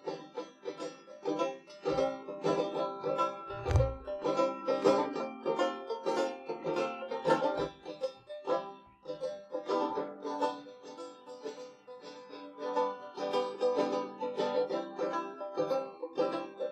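Live band's instrumental break: quickly picked plucked-string notes over a steady chord backing, with a low thump about four seconds in.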